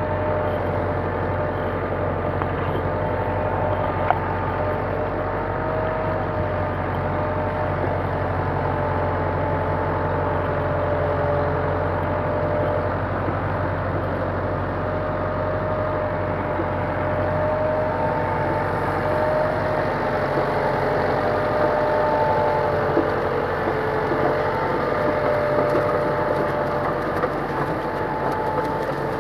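Kubota M9540 tractor's four-cylinder diesel engine running steadily, its low hum easing slightly about two-thirds of the way through.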